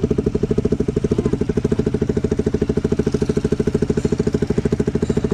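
KTM 125 single-cylinder motorcycle engine idling through an aftermarket Akrapovic exhaust, a steady, rapid, even exhaust pulse.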